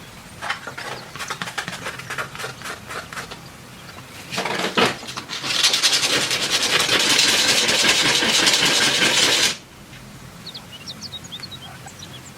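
Workshop tool noise from metalworking: a run of quick scraping strokes, a short burst, then about four seconds of loud, steady rasping from a tool that cuts off suddenly.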